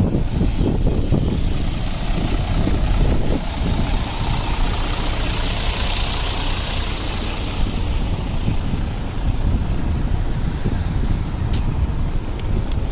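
City street traffic: vehicle engines idling and running, with a steady low rumble. A hiss swells and fades about halfway through.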